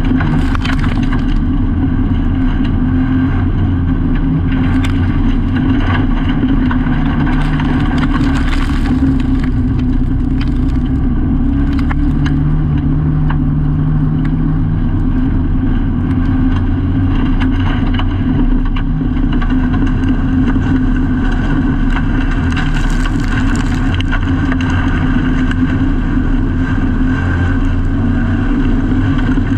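Autograss race car's engine running hard and steadily, heard from inside the cabin, its pitch shifting only a little as the car races, with a few brief rattles over it.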